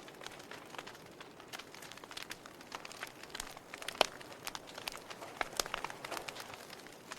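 Wood fire in a fireplace crackling, with irregular sharp pops and snaps over a soft hiss of burning; the loudest pop comes about four seconds in.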